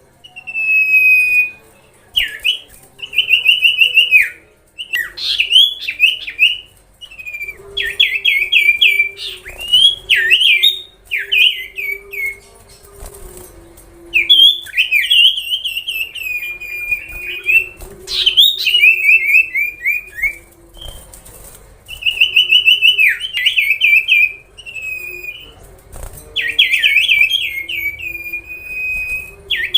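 A songbird singing loud phrases of quick whistled notes and rapid trills, in bouts of one to three seconds separated by short pauses.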